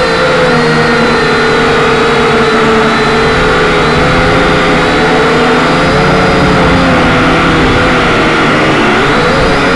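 Quadcopter's electric motors and propellers whining loudly and steadily, their pitch wavering slightly as the throttle shifts, with a brief rise in pitch near the end.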